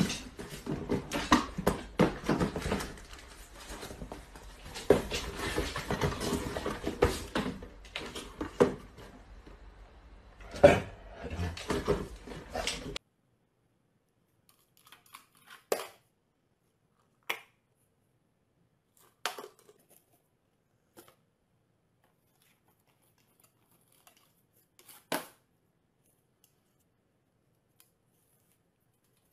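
Small cardboard boxes rustling, scraping and knocking as they are handled, with many sharp clicks. About halfway through it cuts off abruptly to near silence, broken by a few isolated sharp taps and clicks of a dog's claws on a glass tabletop.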